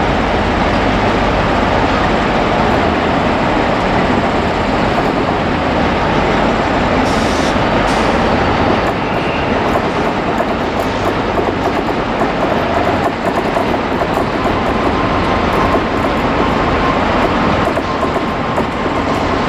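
A train running past on the track: a loud, steady rumble of wheels on rails, with light clicking from the wheels joining in from about halfway through.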